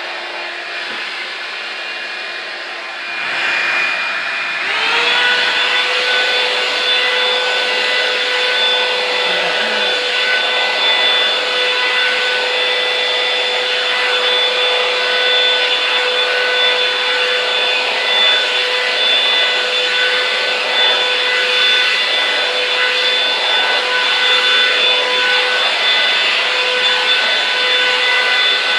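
Revlon One Step hot-air brush dryer running, a steady whine over rushing air. About four and a half seconds in, its motor speeds up: the whine glides higher and the dryer gets louder, then holds steady.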